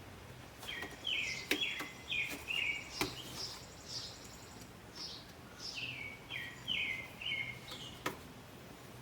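A songbird singing two runs of four or five quick falling chirps, with a pause between them. A few sharp clicks or taps from work on the car break in, about 1.5, 3 and 8 seconds in.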